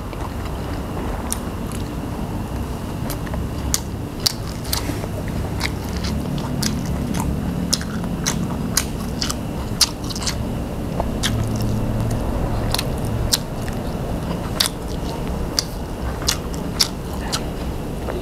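A person chewing a mouthful of tam sua (spicy papaya salad with rice noodles) and sticky rice, with many sharp crunches and wet mouth clicks at an irregular pace.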